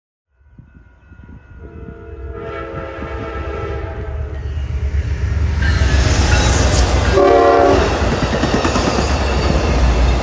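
A train approaching and passing, its rumble and wheel noise growing steadily louder, while its air horn sounds a long multi-tone blast about two seconds in and a short blast around seven seconds in.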